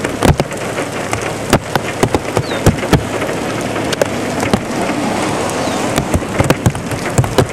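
Rain falling, with large drops striking a hard surface close by in irregular sharp taps over a steady rush of rain.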